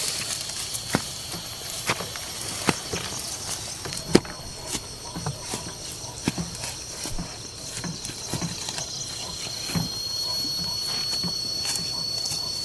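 Steady high-pitched insect buzzing in the background, like crickets or cicadas in a field, with scattered sharp clicks and snaps at irregular intervals.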